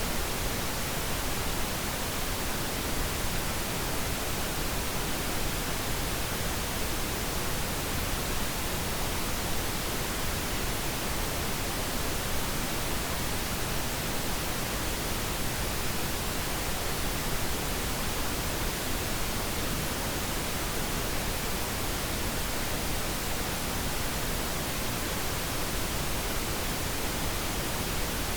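Steady pink noise: an even, unchanging hiss across the whole range, without any tone, rhythm or break.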